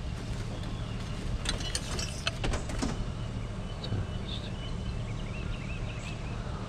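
Steady low rumble of a vehicle on the move, with a brief burst of clattering rattles about a second and a half in. Short, high chirps follow near the middle.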